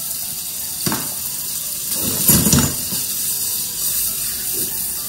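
Prawns sizzling in hot oil in a nonstick wok, a steady hiss. A knock about a second in and a louder clatter a second later come from the prawns being turned with a utensil in the pan.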